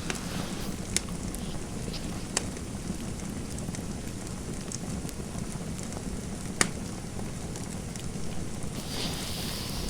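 Fireplace fire crackling: a steady low rumble with scattered sharp pops, the loudest about six and a half seconds in. A soft hiss rises near the end.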